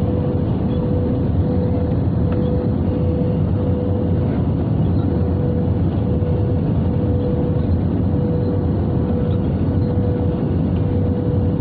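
Steady cabin noise inside an Airbus A320: a low rumble of engines and airflow, with a hum that breaks off and returns a little more than once a second.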